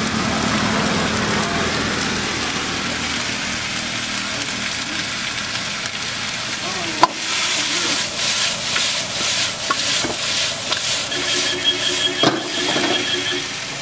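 Chicken frying in a hot wok, a bright sizzle that sets in after a sharp click about halfway in. Over it the metal ladle scrapes and clanks against the wok as the pieces are tossed, with a brief high scraping ring near the end.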